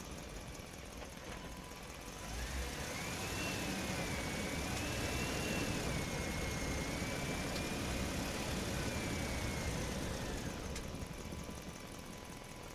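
An engine-like motor sound that runs steadily and swells about two seconds in. A high whine rises, wavers, and fades back down near the end.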